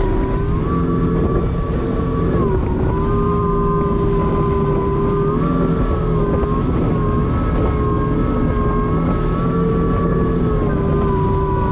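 Jet ski (personal watercraft) engine and jet drive running at a steady cruising speed, with a steady whine that dips and rises slightly in pitch a few times over a low rumble.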